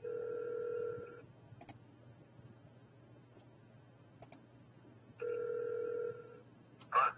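Telephone ringback tone through a phone's speaker while an outgoing call waits to be answered: two rings about four seconds apart, each a steady tone about a second long, with a couple of faint clicks between them.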